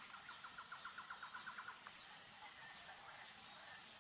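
Faint nature ambience: a bird gives a rapid even trill of short chirps, about ten a second, lasting nearly two seconds. It stops, and only a faint steady background remains.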